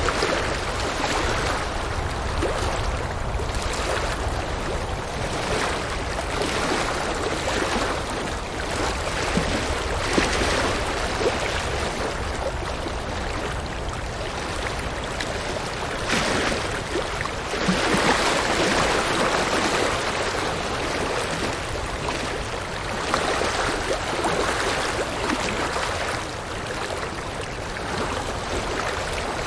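River water rushing and splashing over rocks, a steady noise that swells and eases every few seconds.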